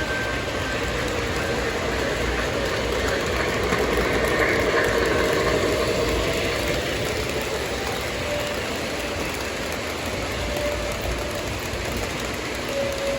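O gauge model trains rumbling steadily along three-rail track, growing louder about four seconds in as a train passes close, then easing off.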